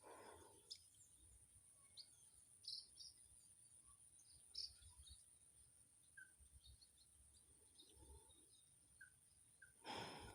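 Faint, quiet outdoor ambience: small birds giving short, scattered chirps over a steady thin high-pitched tone, with a brief rustling noise at the start and another near the end.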